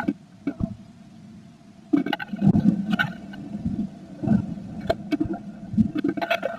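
A blue tit moving about inside a wooden nest box, with irregular knocks, scratches and rustling as nest material is worked, over a faint steady hum.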